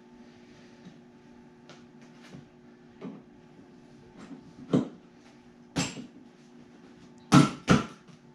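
Scattered knocks and clunks as a motorcycle passenger backrest is fitted back into place. The loudest come about five and six seconds in, then two close together near the end, over a faint steady hum.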